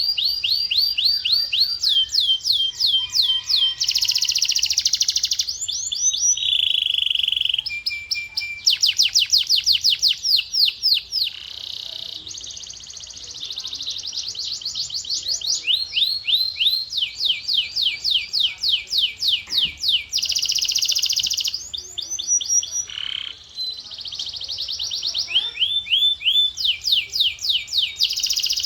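Male canary singing a long, continuous song of fast trills, each a run of rapid repeated falling notes, alternating with held whistled tones and buzzy rolls, the phrase changing every second or two.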